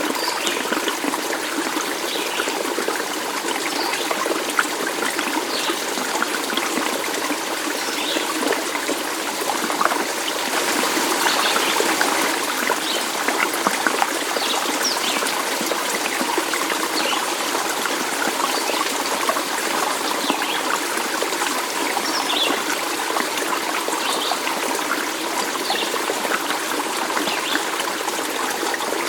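A stream of water trickling and babbling steadily, with short high-pitched sounds every second or two above the flow.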